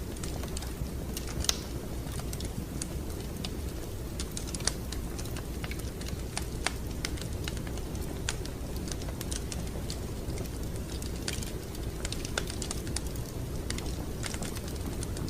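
Wood fire crackling in a fireplace: a steady low rumble of the flames under irregular sharp snaps and pops, a few louder ones standing out.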